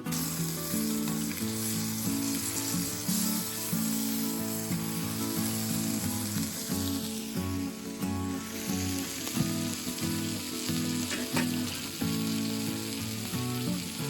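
Food sizzling as it fries in a pan, a steady hiss that starts suddenly and fades near the end, with background music underneath.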